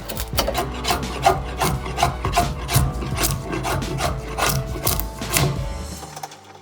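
Hand rasp working a red oak bow stave in quick, even strokes, about three a second, stopping near the end.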